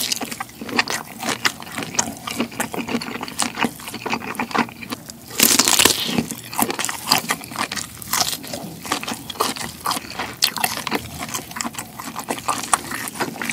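Close-miked biting and chewing of cooked black tiger shrimp meat, with many quick mouth clicks throughout and a louder, longer noisy stretch about five and a half seconds in.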